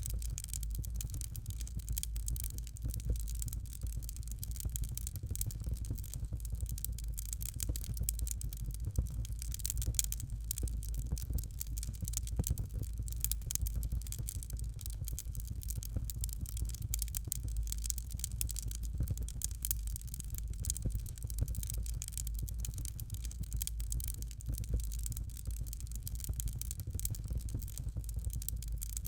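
Fireplace fire crackling steadily: a dense run of small snaps and pops over a low rumble and a soft hiss.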